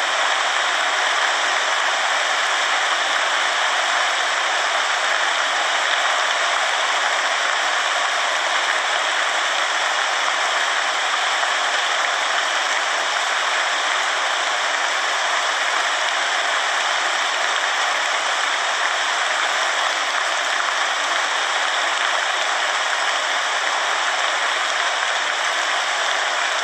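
Steady rain falling, an even hiss that holds at one level throughout with no separate drops or gusts standing out.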